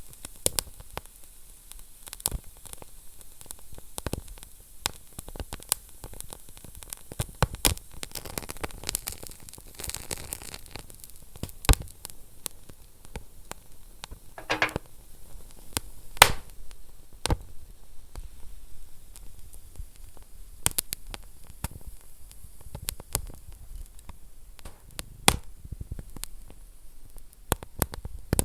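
Wood fire burning in a fireplace: irregular crackles and sharp pops over a steady soft hiss, with a brief whistle about midway.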